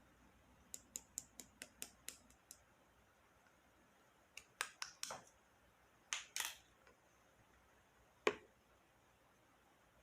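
Slime being played with by hand, giving a quick run of small clicks and pops, then a few longer crackling squelches and one sharper pop about eight seconds in.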